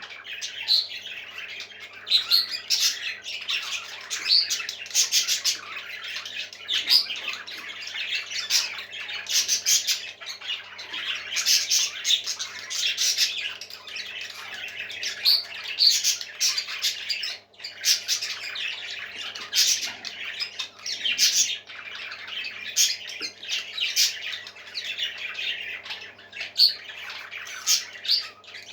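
Parrots chirping and squawking without pause, many short raspy calls one after another, with a brief lull a little past the middle, over a faint steady hum.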